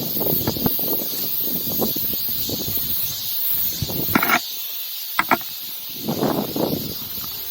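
Strong mountain wind buffeting the camera microphone in irregular gusts, with a brief lull and a few short clicks about four to five seconds in.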